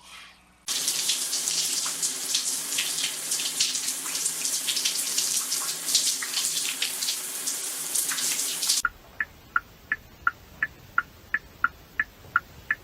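Water running hard from a tap for about eight seconds, then cutting off abruptly. After it comes a quick run of short, high chirps, about four a second.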